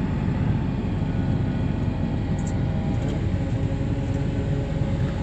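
Heavy diesel farm machinery engine running steadily with a deep rumble and a few faint steady tones above it.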